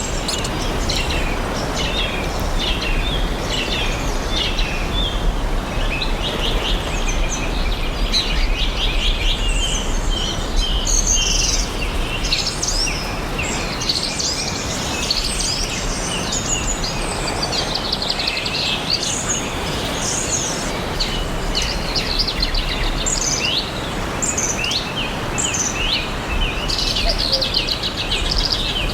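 Several songbirds chirping and trilling at once, many short calls overlapping, over a steady background hiss.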